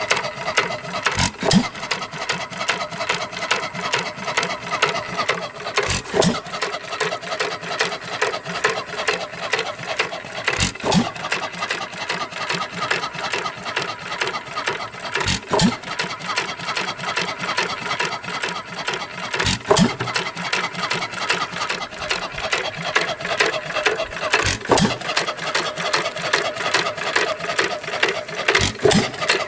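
1917 Chapman 2 hp Style A hit-and-miss gasoline engine running. It fires once or twice about every four to five seconds, a sharp hit each time. Between firings it coasts with a fast, even clatter of its moving parts.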